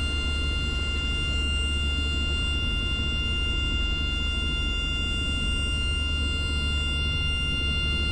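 Steady helicopter cabin noise: a low drone from the rotor and engine with a constant high whine from the drivetrain.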